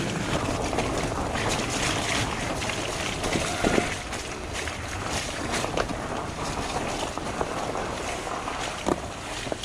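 Wind buffeting the microphone over the running noise of a fat bike on a dirt trail, with scattered small knocks and rattles from the bike.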